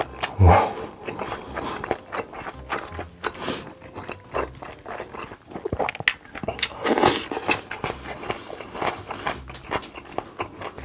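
Close-miked eating: wet chewing with many quick mouth clicks, and two longer slurping or swallowing sounds, about half a second in and again around seven seconds.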